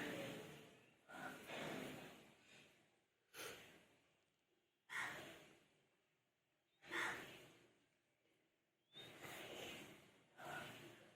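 Faint breathing-like puffs, about seven of them at uneven intervals, each fading away over a second or so.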